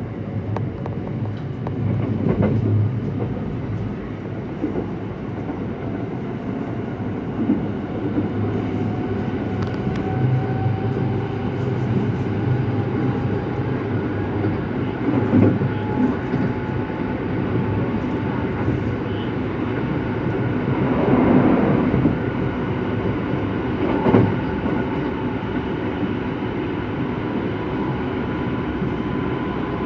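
JR West Sanyo Line local train running, heard from inside the passenger car: a steady low rumble of wheels on rail with a faint whine slowly rising in pitch through the middle, and a few louder knocks.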